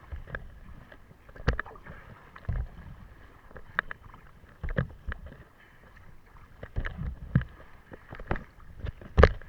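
Kayak paddling: paddle strokes splashing in the water at an irregular pace of about one a second, with knocks, the loudest near the end.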